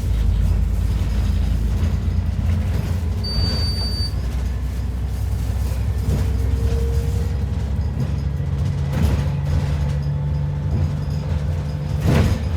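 ADL Enviro 400 double-decker bus running, a steady low engine drone with scattered rattles and knocks. A short high beep sounds about three seconds in.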